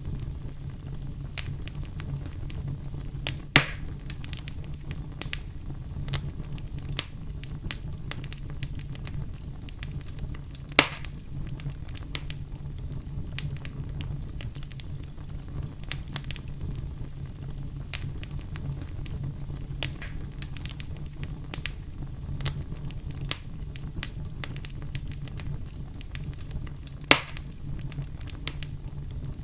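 Wood fire burning in a fireplace: a steady low rumble of flame under frequent small crackles, with three louder pops, at about three and a half, eleven and twenty-seven seconds.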